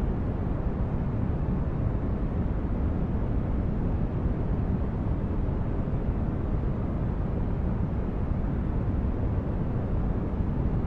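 Steady low, rumbling noise with little high-end hiss, unchanging throughout: a deep, brown-noise-like sleep-aid sound.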